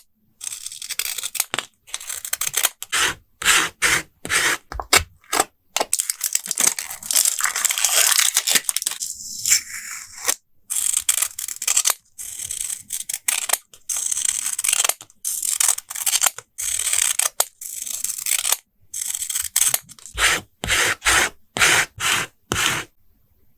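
Paper, stickers and tape being handled for a journal collage: a string of short scratchy peels, rubs and rustles with brief silent gaps, ending in a run of quicker, sharper strokes.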